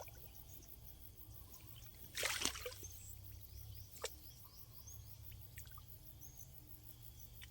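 Quiet field ambience with faint, repeated high bird chirps over a low steady hum, broken about two seconds in by a short splash of water and, about four seconds in, by a single click.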